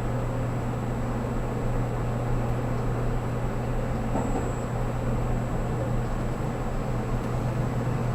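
Steady running noise of a 783 series electric train heard inside the passenger car: a constant low hum with a faint, thin high-pitched whine over it.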